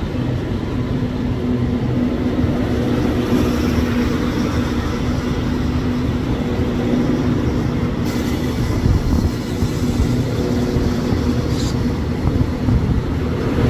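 Diesel-hauled passenger trains pulling away side by side on double track: a steady engine hum over the rumble of the coaches rolling on the rails.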